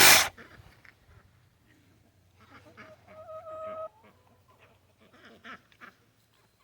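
A sudden loud knock right at the start, then chickens calling: one drawn-out held call about three seconds in and a few short clucks near the end.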